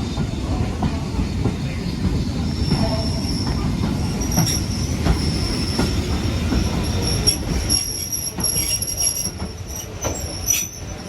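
Heritage railway train rolling on the track: a heavy rumble with clicks from the rail joints, and a steady high-pitched wheel squeal setting in about two seconds in. The rumble eases after about eight seconds while the squeal goes on.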